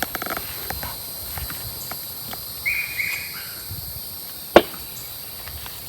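Soft rustling and scraping of hands digging through loose garden soil for potatoes, with a single sharp knock a little over four and a half seconds in.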